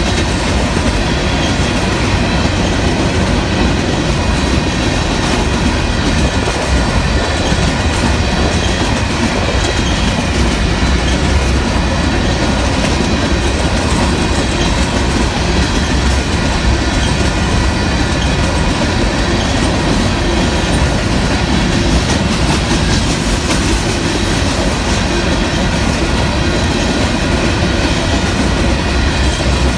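Union Pacific covered hopper cars rolling past at steady speed, their wheels clacking over the rail joints with a continuous low rumble and a faint steady high whine from the wheels.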